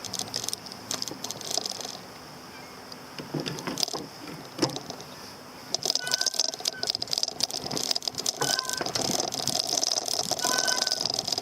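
Daymak Max e-bike in motion, rattling and clattering as heard from a handlebar-mounted camera; the rattle grows louder and more continuous about six seconds in.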